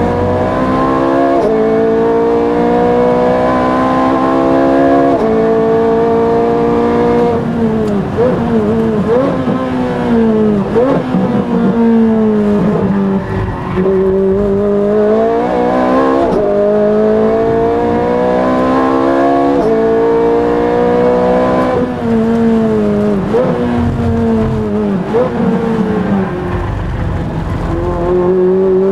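A Ferrari F430's V8 heard from inside the cockpit at racing speed. The revs climb through the gears with quick upshifts, then fall with throttle-blipped downshifts under braking, twice over.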